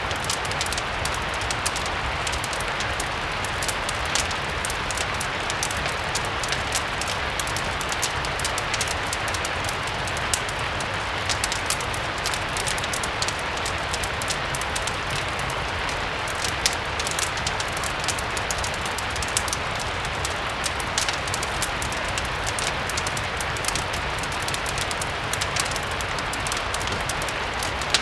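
Steady rain, an even hiss, mixed with a crackling wood fire that gives frequent small, sharp pops.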